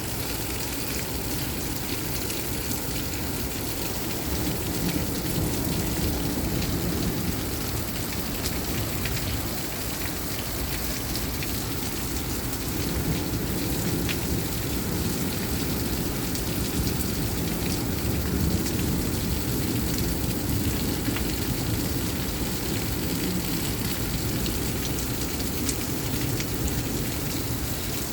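Heavy rain pouring steadily in a derecho thunderstorm, a constant dense hiss with a low rumbling undertone.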